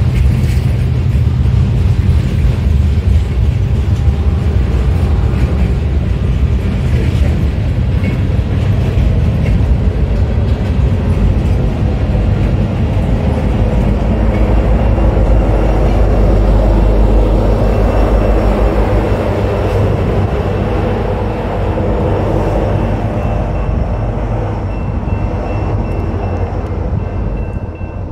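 Freight train rolling past with steady wheel and car noise. A Union Pacific diesel locomotive in the train passes about halfway through, where the low engine rumble is strongest, and the sound eases off near the end as the train clears.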